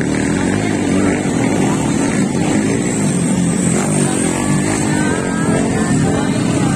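Small motorcycle engines running hard, their pitch rising and falling as they rev.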